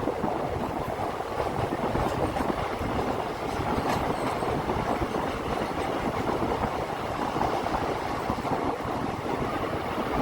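Steady running noise of a passenger express train on the move: a continuous rumble of wheels on rail.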